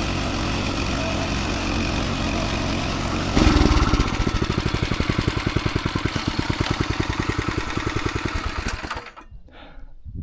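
Farm machine engine running steadily, then about three seconds in becoming louder with a fast, even chugging. The sound cuts off abruptly near the end.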